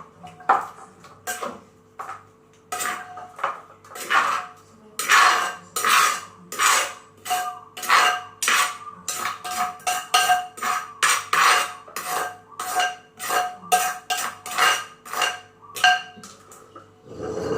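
Kitchen utensils knocking and clinking in a mortar in a quick, steady rhythm of about two strokes a second, as a Thai pounded salad (tam) is worked and mixed.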